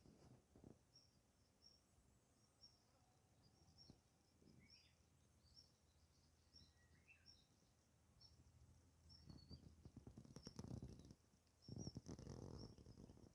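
Faint outdoor quiet with small birds chirping: short high chirps repeat every half second to a second, and two lower chirps come around five and seven seconds in. A soft rustle is heard near the end.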